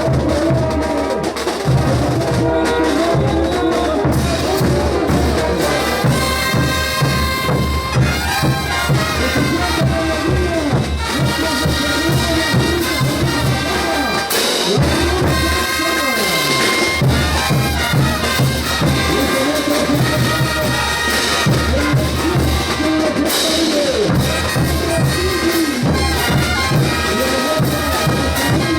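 Bolivian brass band playing ch'uta carnival music: trumpets and other brass carry the melody over a steady bass drum and percussion beat.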